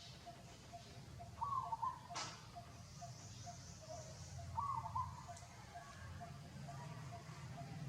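A bird calling, a short phrase repeated about every three seconds over a fainter run of short notes, with a single sharp click a little after two seconds and a steady low rumble underneath.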